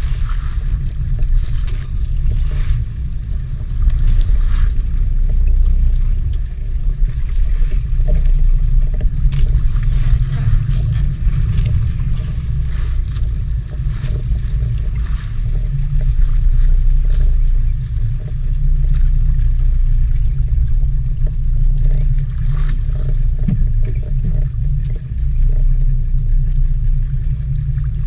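Continuous low rumble of a fishing boat under way at sea, swelling and dipping in loudness, with faint scattered ticks and hiss above it.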